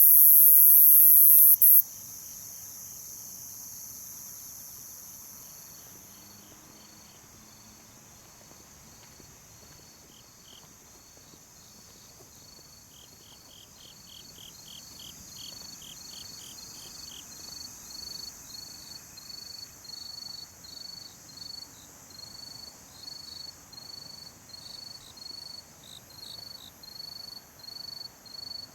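Night insect chorus: steady high-pitched trilling, with a louder high buzz that cuts off suddenly about two seconds in. A single insect's regular chirping, about two chirps a second, grows louder through the second half.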